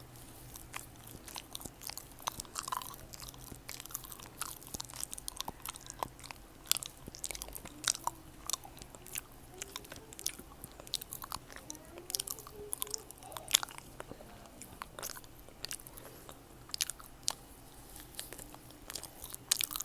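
Close-miked chewing and biting of fresh fruit: irregular wet, crisp clicks and smacks of the mouth working through the fruit.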